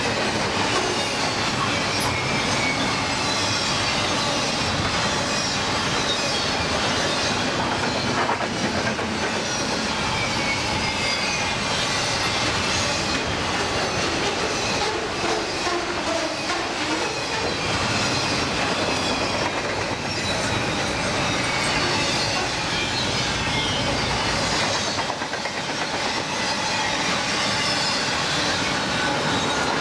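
Double-stack container well cars of a long freight train rolling past: a steady rumble of steel wheels on rail, with clicking over rail joints and faint high wavering squeals from the wheels.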